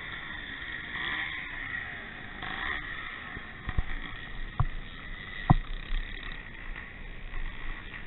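Vintage motocross motorcycles running at a distance, with engine pitch sliding up and down near the start, and three sharp thumps on the microphone in the middle.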